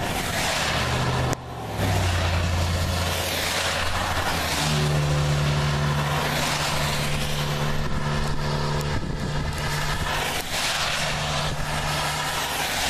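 Strong storm wind and rain rushing around a vehicle, over a steady low engine hum that steps up in pitch about five seconds in.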